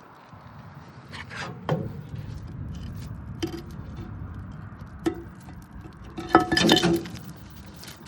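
A chunk of concrete dropped down a deep bunker vent shaft, knocking against the shaft walls as it falls over a hollow, echoing rumble. About six seconds in comes a burst of loud clinking, ringing hits.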